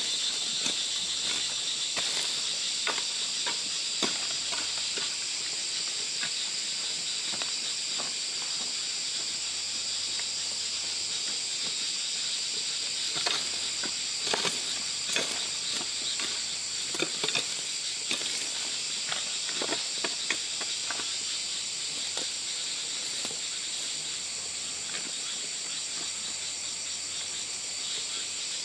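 Steady high-pitched insect chorus, with scattered sharp clicks and rustles, most of them in the middle stretch.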